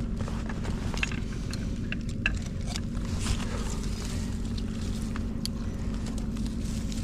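Steady low rumble of a distant engine with a constant low hum, overlaid by scattered light clicks and ticks.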